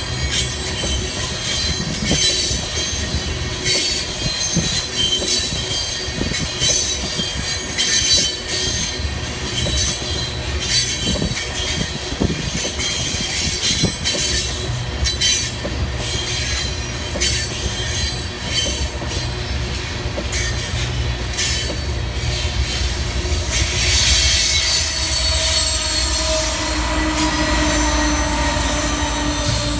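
Loaded tank cars of a freight train rolling past close by, the wheels clicking over the rail joints and squealing against the rails. Near the end the train's rear diesel locomotive passes, adding the steady hum of its engine.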